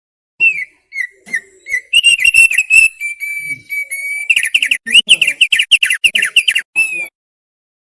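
Thick-billed white-eye (opior paruh tebal) singing: one loud song phrase of clear whistled and chirped notes, a few separate chirps at first, then a fast run of notes in the second half, ending shortly before the close.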